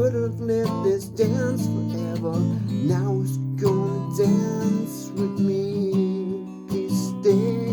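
Acoustic guitar strummed chords with a melody line above them: an instrumental passage of music.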